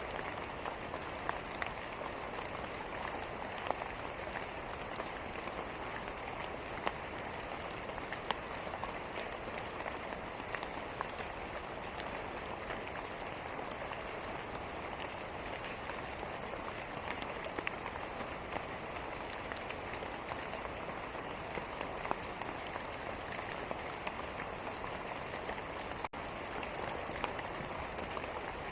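Steady rain falling, an even hiss with many sharper drops ticking scattered through it. The sound cuts out for a split second near the end.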